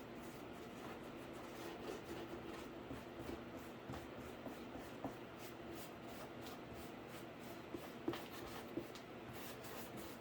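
Paint being brushed onto a cardboard PC case: soft, scratchy strokes with small taps and clicks, a sharper tap about eight seconds in, over a steady low hum.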